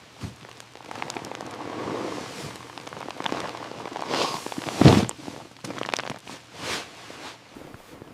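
Rustling and crackling of an inflatable tent's fabric being handled and spread out, with scattered knocks and a heavy thump nearly five seconds in.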